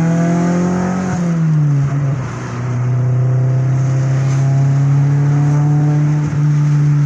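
Honda B18 VTEC four-cylinder engine running on a test drive. Its pitch falls as the revs drop about a second and a half in, then it holds a steady engine note.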